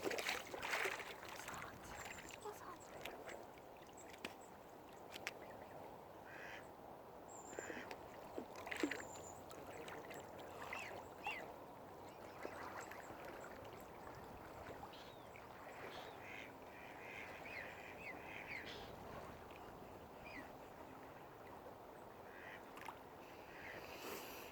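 Waterfowl calling on a lake: scattered short calls, some in quick runs, over a steady background hiss.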